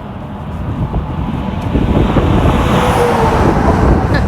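A road vehicle driving past, getting louder from about two seconds in and peaking near the end, with a faint falling pitch as it goes by.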